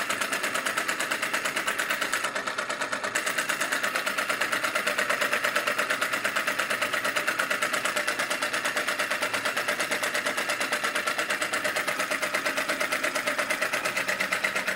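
Model flame-licker vacuum engine running at full speed, about 500 rpm, with a rapid, even popping beat at about eight a second.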